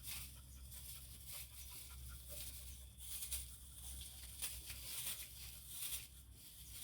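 Miniature pig rooting and pushing through dry bedding material to make its bed, with irregular rustling and crackling.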